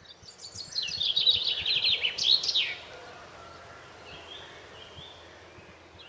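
A songbird singing a fast run of short, falling notes lasting about two and a half seconds, then softer chirps over a steady faint outdoor hiss.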